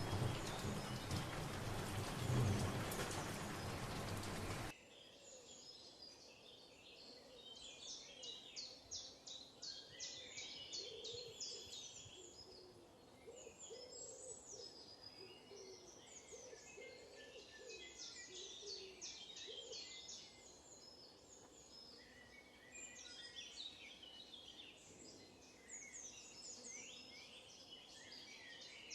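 Heavy rain that cuts off abruptly about five seconds in, giving way to a chorus of songbirds chirping and trilling, with some lower, wavering calls among them.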